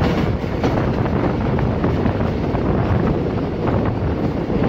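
Wind buffeting the microphone, held out of the window of a passenger train running at speed, over the steady rumble of the carriage rolling along the track.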